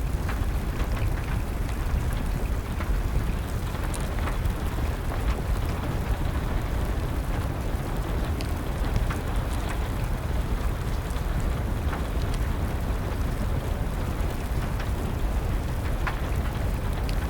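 Steady rain mixed with a crackling fire: a constant low rumble and hiss with scattered sharp pops and ticks.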